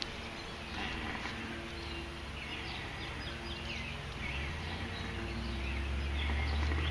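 Birds chirping repeatedly in short calls, with a low rumble building from about two-thirds of the way in.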